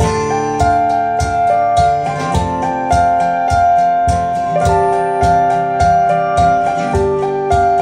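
Live band playing an instrumental passage: held keyboard notes over a steady, regular beat of sharp strokes.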